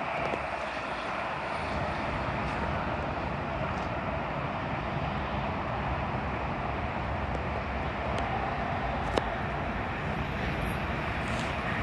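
Steady rumble of an approaching train, growing slightly louder toward the end, with a single sharp click about nine seconds in.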